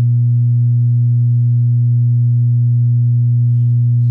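Peavey 6505+ 120-watt tube amp head, off standby with its volume turned completely down, putting out a loud, steady low hum with fainter overtones above it. The owner doesn't know whether this hum is normal for the amp or a fault in his unit.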